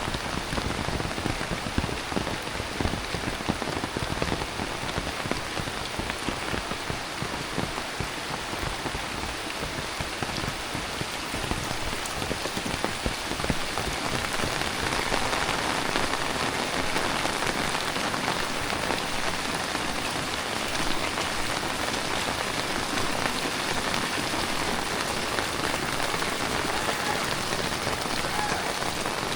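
Heavy tropical rain pouring down, a steady dense hiss of drops pattering on surfaces, growing a little heavier about halfway through.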